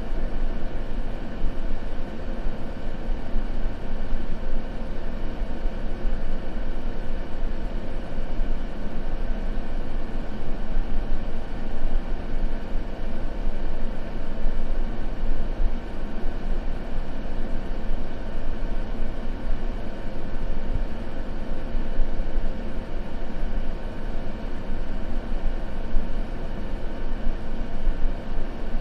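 Steady white-noise ambience: an even, unbroken rush, heaviest in the low end, with a faint steady hum in it.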